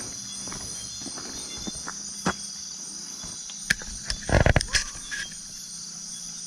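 Insects chirring in a steady high drone, with a person's footsteps on the ground: a few single steps, then a short cluster of louder steps about four and a half seconds in.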